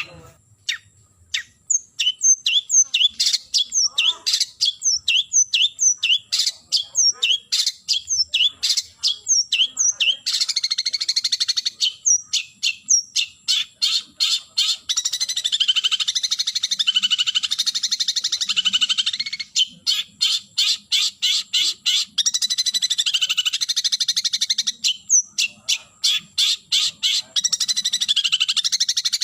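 Long-tailed shrike (cendet) calling to a rival: series of short, sharp falling notes, two or three a second, alternating with long stretches of fast, harsh rattling chatter.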